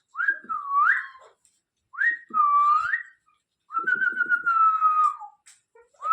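Pet green parrot giving three clear whistled calls. The first two swoop down and back up, and the third is a longer, level whistle that slides down at its end, with a rough rattle under it.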